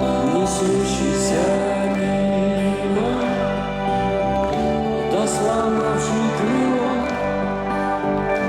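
Rock band playing a slow instrumental passage live: a lead instrument plays a melody of sliding, bending notes over sustained chords and bass. Cymbal swells come in several times.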